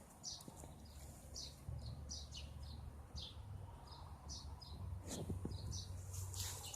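Small birds chirping: a run of short, high chirps, two or three a second.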